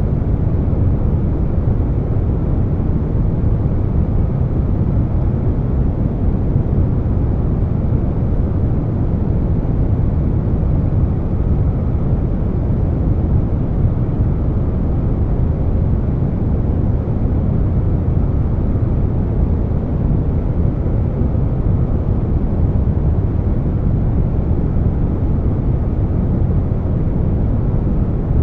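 Steady air conditioner noise layered with brown noise: an even, deep rush with most of its weight in the low end and no changes.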